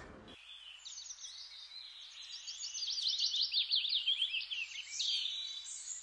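Birds chirping: a dense run of quick, high chirps that grows louder toward the middle.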